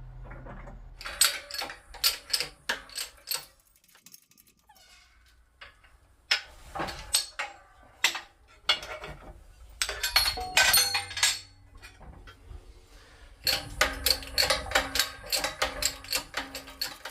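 Metal parts and tools clinking and clanking: quick runs of sharp metallic knocks and clinks, with two short lulls, around four and twelve seconds in.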